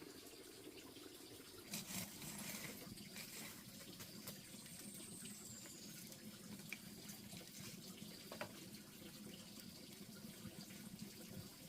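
Faint running water, with a few light knocks and a brief high, falling whistle about five seconds in.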